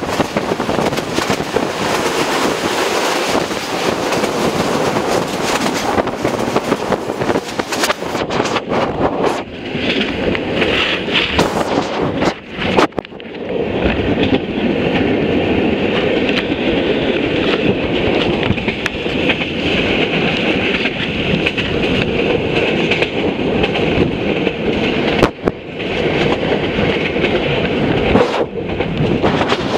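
Passenger train running at speed, heard from an open carriage window: a steady rush and rumble of the wheels on the track. The noise dips briefly twice.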